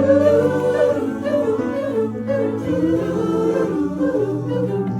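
A large choir singing sustained chords in close harmony, the chords shifting every second or so.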